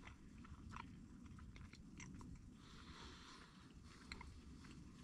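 A person chewing and biting into a breakfast pizza, with faint, irregular soft crunches.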